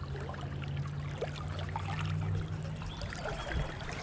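Creek water running and trickling, with a low steady hum underneath.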